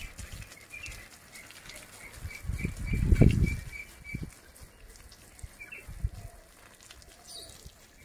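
A small bird chirping in a quick, even run of high notes over the first few seconds, with a loud low flutter of wings about three seconds in.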